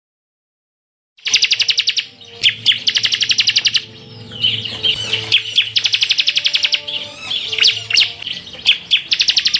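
Bar-winged prinia (ciblek) singing, starting about a second in after a moment of silence. Its song is built from very fast rattling trills, the rapid-fire 'tembakan' delivery, repeated in short high bursts between varied chirps and whistles.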